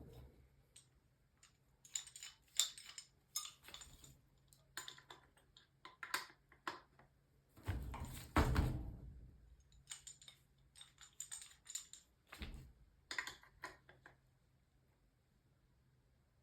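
Hand work on plumbing: a run of light metallic clicks and clinks from tools and fittings being handled, with a couple of duller knocks about eight seconds in and again near twelve seconds, then it goes quiet.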